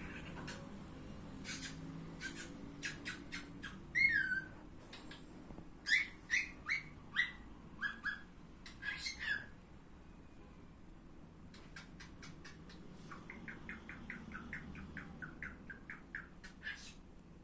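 Bird chirping: short sharp chirps with a louder falling call about four seconds in, then a quick run of chirps near the end.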